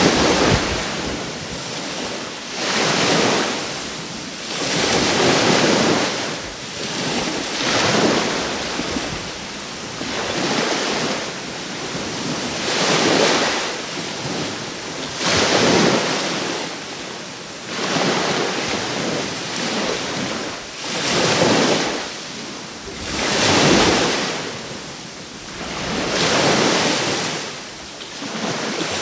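Sea waves breaking on the shore, a noisy wash of surf that swells and eases about every two to three seconds.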